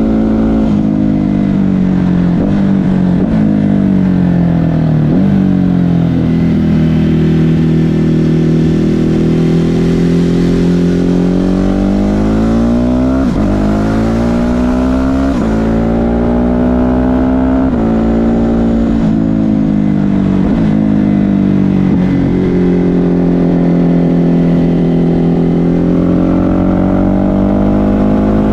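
Ducati Hypermotard 950 SP's 937 cc L-twin through an SC Project exhaust, running under load as the bike rides along. The revs climb and fall again and again, with several quick pitch drops at the gear changes.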